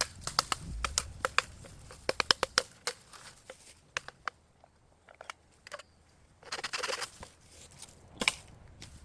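Bamboo clicking and knocking as it is worked in a storm-damaged grove: quick runs of sharp woody clicks, about six a second, then scattered clicks. A short rustle comes near the two-thirds mark and one sharp knock about eight seconds in.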